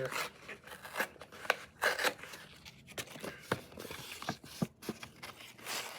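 Scissors cutting through the cardboard of an MRE package to take off a postcard: a string of short, sharp snips with paper and cardboard rustling between them.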